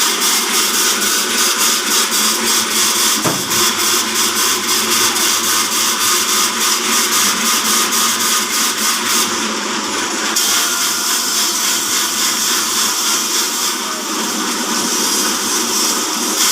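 Horizontal band sawmill running on its electric motor: a loud, steady mechanical whirring with a fast, even pulsing.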